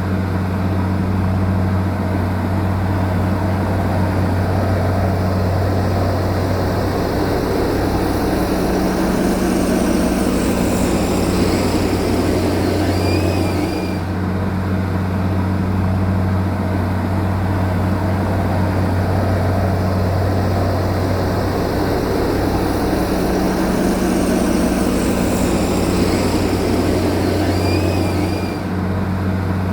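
Heavy earthmoving machine's diesel engine running steadily at work, a loud low hum. A small high chirping pattern comes back about 15 seconds apart.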